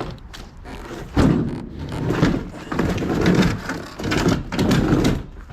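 Heavy cardboard box holding a chipper shredder being dragged slowly across a floor in a series of pulls, scraping and bumping.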